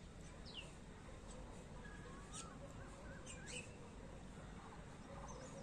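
Birds chirping faintly: a few short, high calls that sweep downward, plus some brief wavering whistles, over a low steady background hiss.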